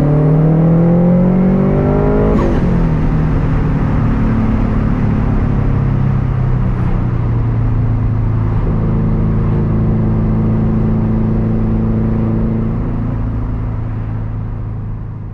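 Subaru WRX STI's turbocharged flat-four through a loud Tomei Expreme Ti unequal-length exhaust, revving up under acceleration for about two seconds. A short sharp sound comes as the throttle is lifted and the revs fall. The engine then settles into a steady low drone that fades out near the end.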